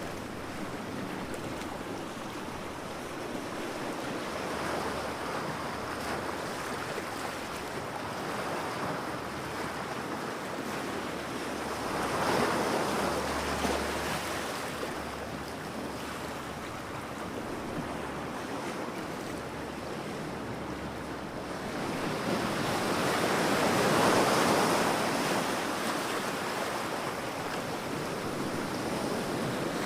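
Ocean waves breaking on a beach: a steady wash of surf with swells building and breaking twice, about twelve seconds in and again around twenty-four seconds, and another starting near the end.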